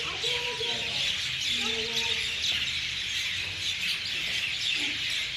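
Many birds chirping at once in a dense, continuous chorus, typical of a flock settling to roost in the evening. Faint human voices talk under it near the start and about two seconds in.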